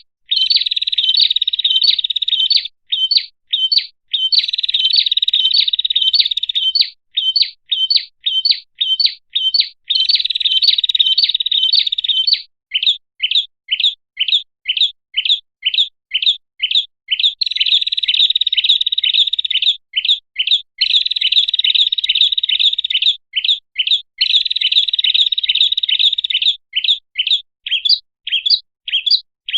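Prinia (prenjak) calling: runs of sharp chirps, about three a second, alternating with rapid buzzy trills of two to three seconds each.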